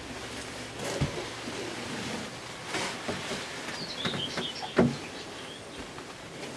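Outdoor ambience with a few short, high bird chirps about four seconds in, and a few scattered knocks, the sharpest about five seconds in.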